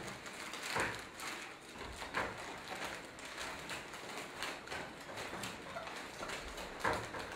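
Crinkling and rustling of foil gift wrapping being handled, with scattered irregular knocks.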